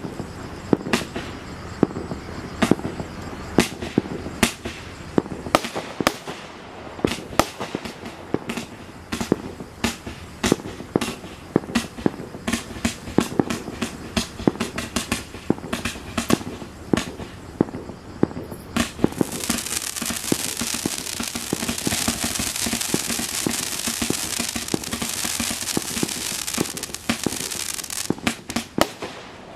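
Black Cat Excelsior firework going off in a rapid run of sharp bangs, a few a second. From about two-thirds of the way in, a steady loud hiss joins the bangs for several seconds, then stops near the end.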